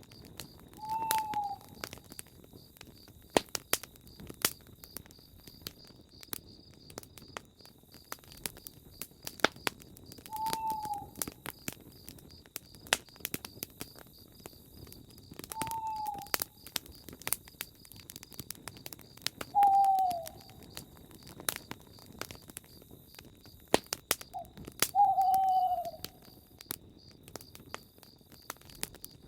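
Campfire crackling with frequent sharp pops, while a bird gives a short, slightly falling hoot five times, several seconds apart. A steady, pulsing high buzz runs underneath.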